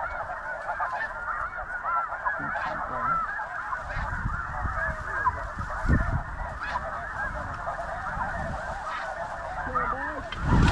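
Dense, continuous chorus of snow goose calls, many birds honking over each other. A shotgun blast cracks right at the very end.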